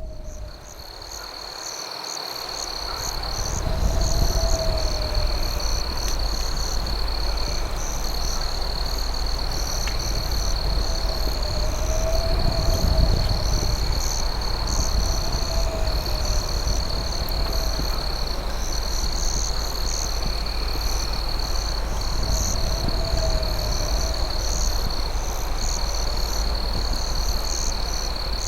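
Night insect chorus: crickets keep up a steady high trill, with a second insect pulsing higher still. A lower, bowed call repeats every few seconds. The whole bed dips and swells back in over the first few seconds.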